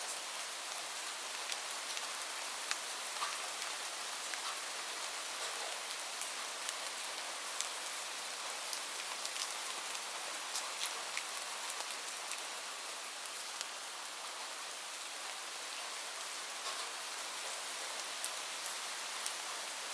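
Steady rain falling, an even hiss with scattered sharp drip and patter ticks of individual raindrops hitting a surface.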